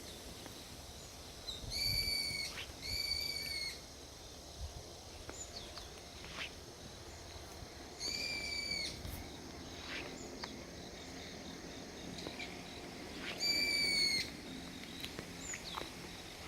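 An animal's long, high whistled call, heard four times: twice in quick succession near the start, once about eight seconds in and once near the end. Short high chirps sound in between.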